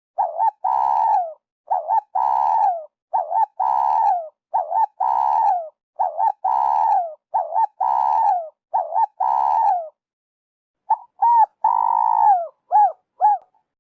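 Spotted dove cooing: a phrase of two short coos and a long falling coo, repeated seven times about every second and a half. After a pause about ten seconds in, a quicker run of short coos around one long falling coo.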